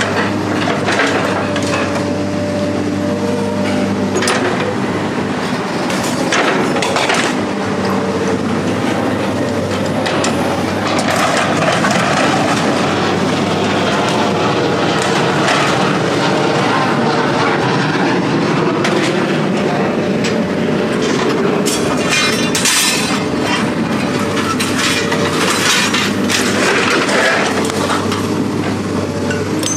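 A heavy engine running steadily, with repeated metal clanks and knocks over it.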